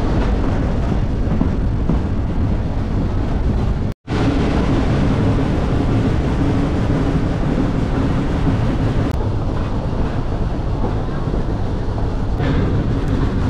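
Steam train running: a steady, dense rumble of the locomotive and cars moving on the track. A brief gap about four seconds in where the sound cuts out.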